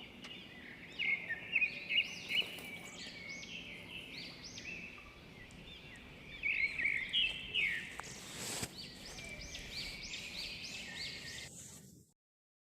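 Several small birds chirping, with many short arched notes repeating and overlapping over a faint steady background hiss. A brief rustle of noise comes about two thirds of the way in, and the sound cuts off suddenly near the end.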